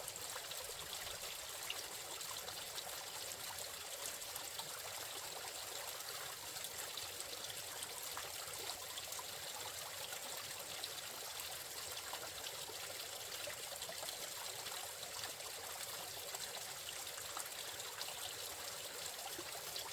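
Water trickling steadily out of a pond through its drain culvert, a steady flow that leaves the pond leaking dry.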